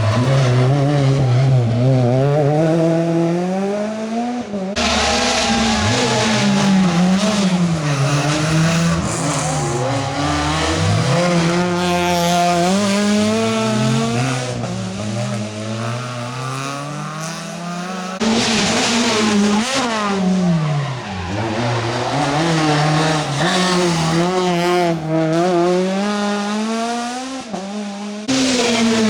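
Rally cars driven flat out on a stage: engines rev high and fall away again with each gear change and lift, one car after another. The sound changes abruptly about five seconds in, again near eighteen seconds, and once more near the end.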